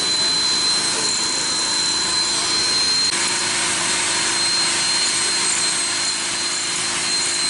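A motorised tool or small machine running steadily, with a high, even whine over a hiss. A lower hum joins about three seconds in.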